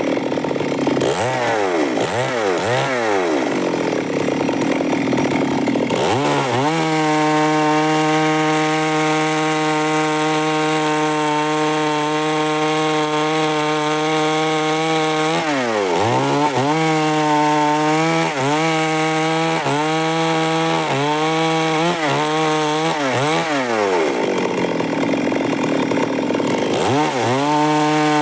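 Stihl MS 382 two-stroke chainsaw sawing timber. The engine pitch swoops up and down in the first few seconds as the throttle is worked, then holds high and steady at full throttle. About halfway through comes a run of quick dips in engine speed, and the pitch holds steady again near the end.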